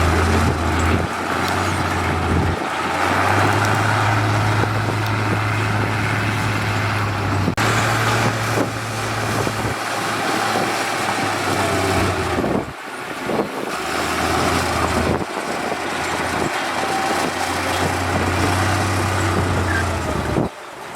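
Diesel engine of heavy road-construction machinery running, a steady low rumble with mechanical noise over it, changing abruptly a few times.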